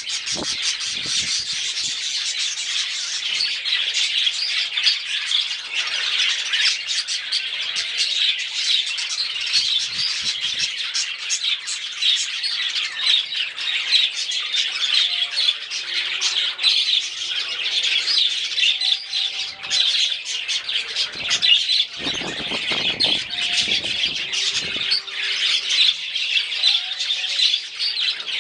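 A flock of budgerigars chattering continuously: many overlapping high chirps and warbles with no break.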